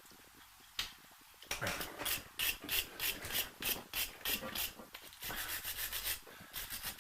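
Hand wire brush scrubbing a metal brake part in quick back-and-forth strokes, about four or five a second. It starts about a second and a half in and pauses briefly near five seconds.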